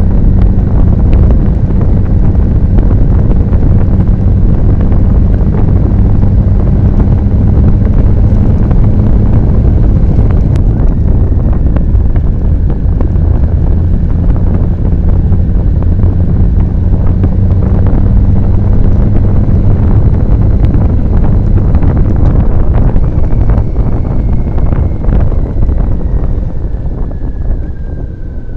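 Motorcycle riding at speed: heavy wind rumble on the microphone over a steady engine note. The noise drops near the end.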